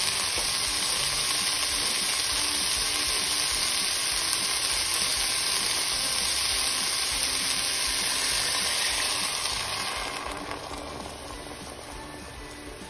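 Onion, pepper and bean sofrito frying in a hot pot: a steady sizzle that dies down about ten seconds in as water is added and covers it.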